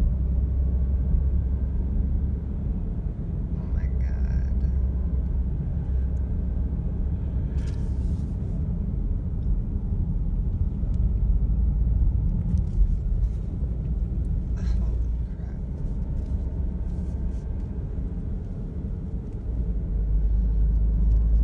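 Steady low rumble of a car's engine and tyres on the road, heard from inside the cabin while driving, with a few faint brief sounds over it.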